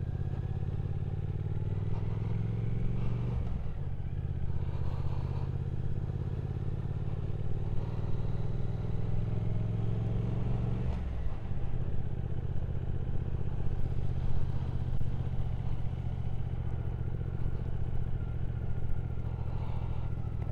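Triumph Speed Twin 1200's parallel-twin engine on the move, the revs climbing and then dropping at gear changes about three seconds in and again about eleven seconds in, then running steadily.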